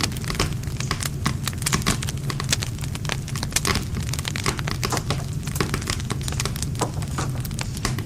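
Wood fire crackling and popping: a dense, irregular stream of sharp snaps from burning wood over the low steady rush of the flames.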